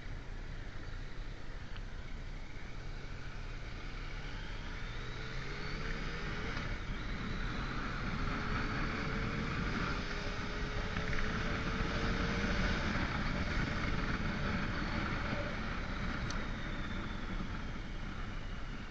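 Motorcycle underway, with engine note and wind and road noise. The engine pitch rises a few seconds in as it speeds up, and the wind and road noise grow louder through the middle.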